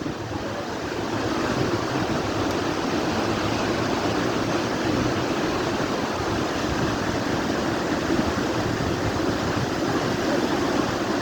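Steady rushing of a large waterfall: an even, dense wash of falling water with no breaks.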